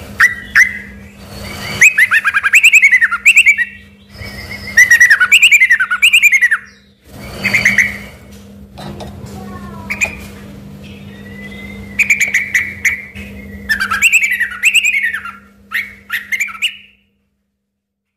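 Yellow-vented bulbul (trucukan) singing vigorously in repeated phrases of rapid, sliding, chattering notes, a song its keepers liken to a white-rumped shama's. A steady low hum runs underneath. The song stops shortly before the end.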